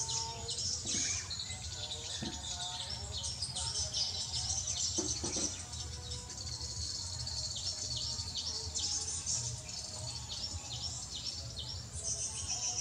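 Birds chirping rapidly and repeatedly, over a steady low hum.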